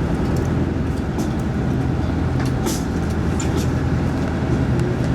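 Boat engine running steadily at an even pitch, with scattered light clicks and knocks over it.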